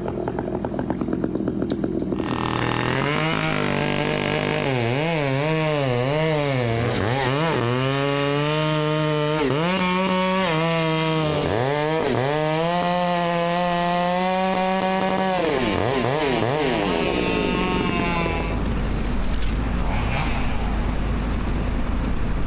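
Chainsaw engine running at high revs, its pitch repeatedly bogging down and recovering as it cuts, then stopping about 18 seconds in. A low engine rumble carries on after.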